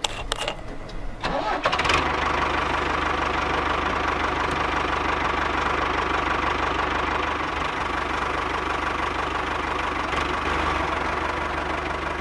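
A few sharp clicks, then about two seconds in a tractor engine starts and runs steadily at idle.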